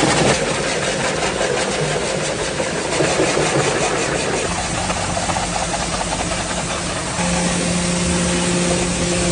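High-pressure spray hissing steadily during engine-bay cleaning, over the steady hum of a running machine; a further steady tone joins the hum about seven seconds in.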